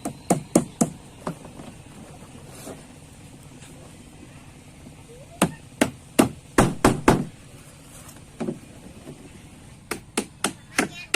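Repeated sharp blows of a hand tool striking the boat's frame material, in irregular runs of quick strikes about three to four a second.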